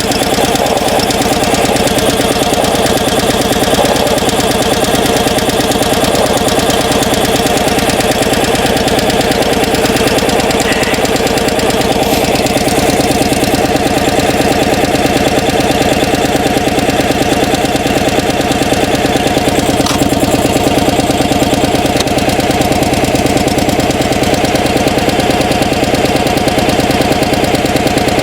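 Small gasoline engine of a log splitter running steadily just after a hard cold start, on partial choke, warming up with its oil still stiff from the cold.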